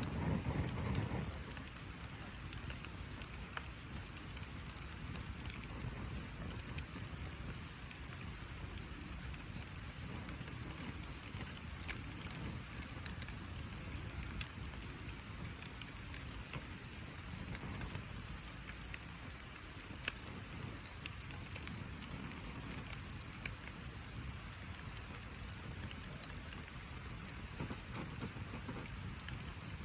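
Wood fire of thin box boards crackling, with frequent small sharp pops over a steady hiss.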